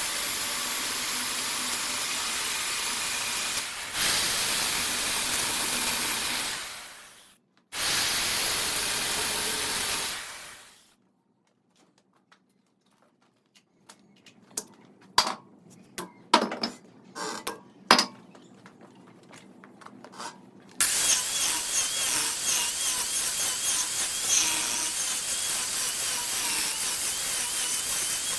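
Wood lathe turning with a gouge cutting into the spinning wood, a steady hiss of cutting. It fades out twice, then gives way to several seconds of near silence broken by scattered knocks and clicks, and the cutting hiss returns about three-quarters of the way in with a wavering high whine.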